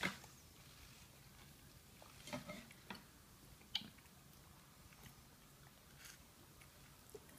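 Faint chewing and mouth sounds of a toddler eating noodles off a fork, with a few light clicks, one sharper click a little under four seconds in, over quiet room tone.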